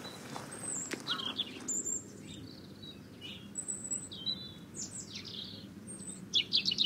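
Small birds chirping and whistling in short high calls, several at a time, with a quicker run of falling notes near the end, over a low steady outdoor background.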